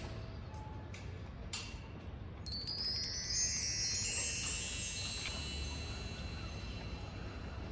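A bright cascade of many high chime tones about two and a half seconds in, ringing together and fading away over a few seconds, over a low steady background rumble.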